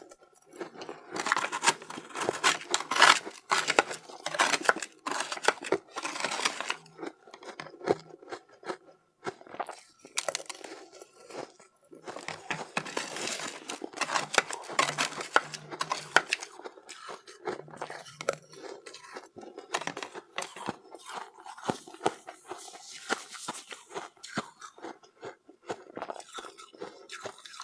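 Soft, powdery ice dusted with matcha powder being bitten and chewed close to the microphone: crackly crunching in bouts of a few seconds, with short pauses between bites.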